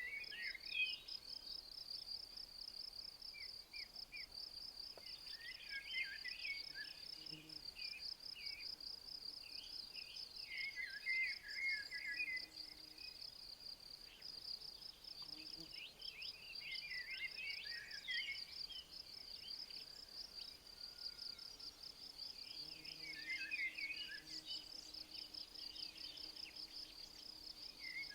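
Insects, crickets or bush-crickets, chirring in a steady, fast-pulsing high trill. Short phrases of bird song come in over it about five times, every few seconds.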